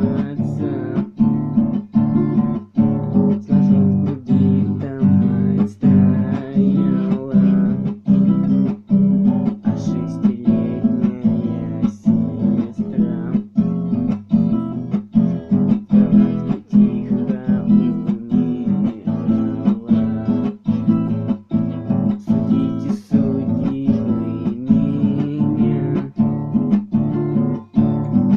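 Acoustic guitar strummed in a steady, even rhythm, chords ringing between the strokes.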